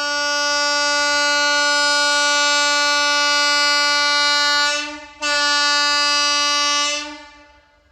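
Locomotive air horn sounding two blasts on one steady pitch: a long one of about four and a half seconds, a brief break, then a shorter one of about two seconds that fades away.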